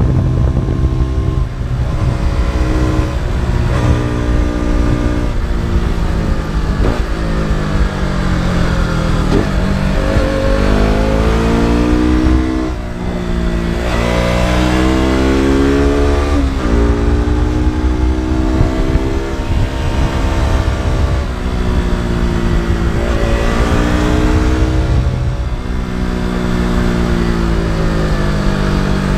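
KTM RC 200's single-cylinder four-stroke engine and exhaust under riding load, revs climbing and falling again and again as the bike is ridden through corners. About twelve seconds in, the engine briefly drops off and goes quieter before pulling again.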